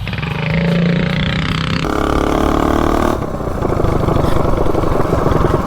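Predator 212 single-cylinder engine of a mini bike, fitted with a high-compression Shred Head cylinder head, running under throttle with its pitch rising over the first two seconds. About three seconds in it drops to a lower, steady, rapid firing beat.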